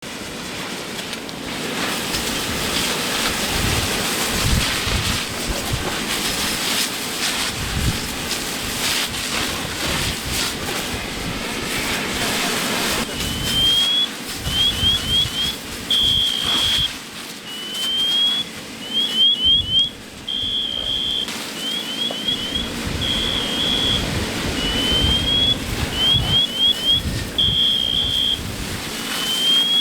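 Wind buffeting the microphone, with gusting rumbles over a steady rush. From about halfway a car alarm sounds, cycling through a slow rising whoop, a run of quick chirps and a steady warbling tone, over and over every few seconds.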